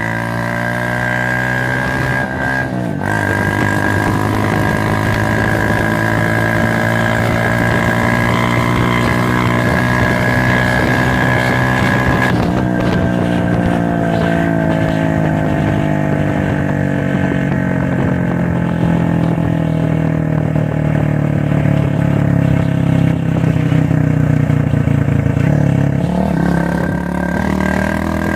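Bajaj CT100 motorcycle's single-cylinder four-stroke engine running through a swapped-in Yamaha RX100 silencer, its revs rising and falling slowly. There is a brief dip about three seconds in and a drop in revs near the end.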